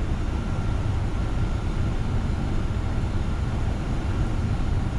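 Steady low rumble of airflow and engines inside a Boeing 747-400 freighter's flight deck on final approach, with a faint steady high tone.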